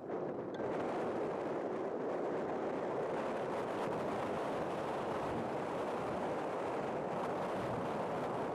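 Strong wind blowing across the microphone: a steady rushing noise with no engine or motor tone standing out.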